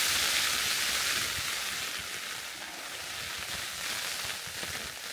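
Heavy rain falling on a tent's flysheet, heard from inside the tent: a steady hiss that eases slightly about two seconds in.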